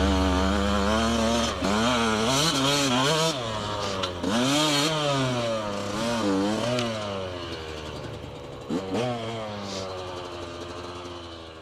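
A 1999 Yamaha YZ125's two-stroke engine being revved, its pitch climbing and dropping in about five blips. The sound fades out toward the end.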